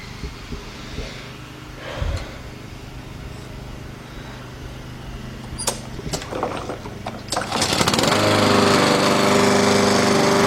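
Troy-Bilt push mower's small engine, with a newly replaced carburetor, starts about three-quarters of the way in after a few clicks and rattles, then runs steadily and loudly: the mower that would not start now runs.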